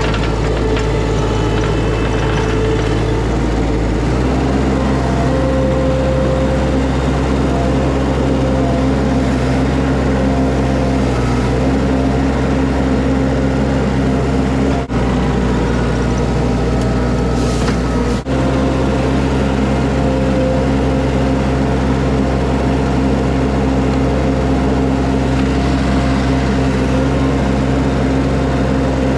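Skid steer diesel engine running steadily while working, its note shifting about four seconds in, with two brief breaks in the sound.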